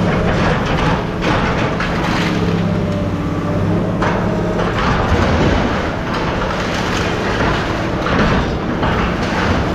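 A heavy engine running steadily, with repeated rattling and clanking of metal over it.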